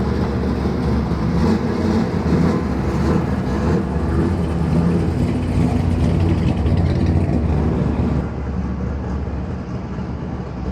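Car engine running steadily at low speed, a low, even engine note without revving.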